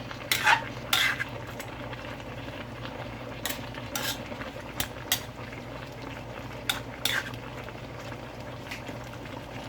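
Metal spoon or ladle clinking and scraping against a cooking pot while chicken curry is stirred, about a dozen irregular clinks over a steady low hum.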